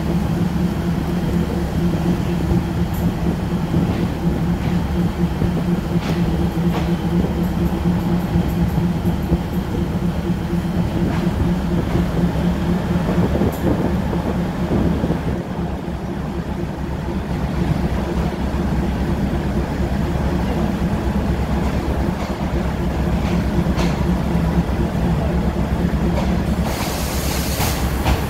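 Commuter train pulling slowly out of the station, heard from on board: a steady engine drone over a low rumble, with a few light ticks of the wheels and a hiss near the end.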